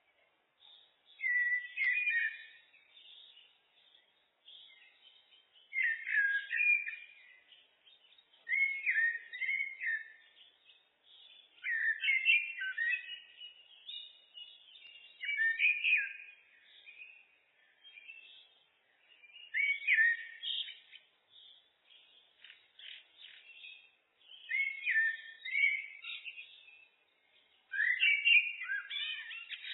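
Common blackbird (Turdus merula) singing: about eight warbling, fluty phrases, one every three to four seconds, with fainter twittering between them.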